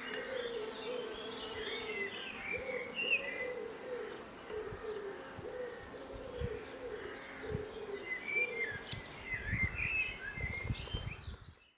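Recorded spring birdsong: a dove cooing over and over in a steady series of low notes, with small songbirds chirping higher above it. The coos stop about two-thirds of the way through, the chirping carries on with a few low thuds, and the recording fades out just before the end.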